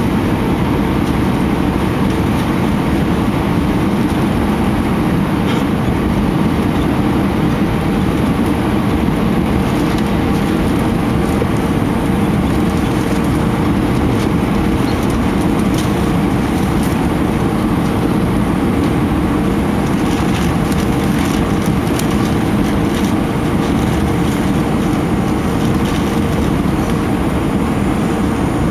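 Steady cabin noise inside an Airbus A319 in flight: an even, deep rumble of engines and rushing air, with a constant hum running through it.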